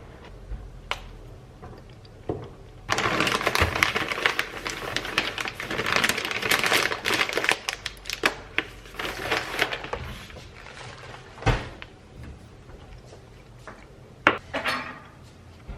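Dense clattering and rustling for several seconds, with scattered sharp clicks and knocks before and after it.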